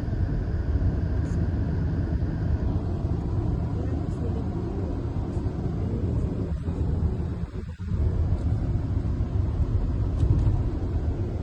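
Steady low rumble of a car on the move, heard from inside the cabin, with a brief dip about three-quarters of the way through.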